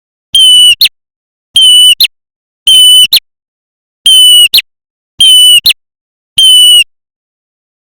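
Repeated lure recording of a prenjak merah calling: six phrases about a second apart, each a short steady high note followed by a quick sharp note, the last without the second note.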